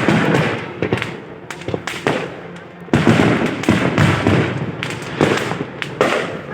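Fireworks display: a loud burst right at the start and another about three seconds in, each followed by dense crackling and popping.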